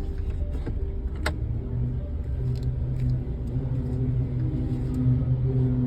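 Car engine running with a steady low rumble, heard from inside the cabin, its hum strengthening about a second and a half in as the car pulls forward; a single sharp click about a second in.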